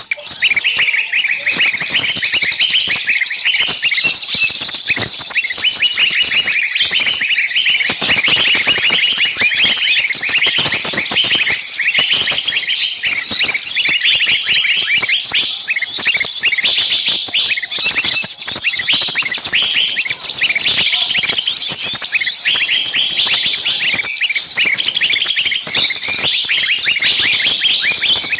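A dense, noisy chorus of many small songbirds chattering and calling at once, quick shrill chirps overlapping without a break. These are agitated, screaming calls like those of a trapped bird, used as a lure to draw other small birds in.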